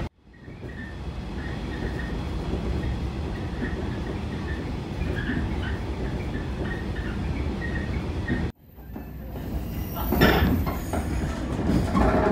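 Local electric train running, heard from inside the passenger car: a steady rumble of wheels on rail. The sound cuts out about eight and a half seconds in and fades back, then grows louder and harsher about ten seconds in.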